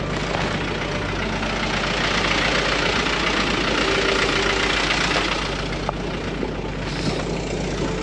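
Large cargo truck's engine idling steadily, with a broad even hiss over it.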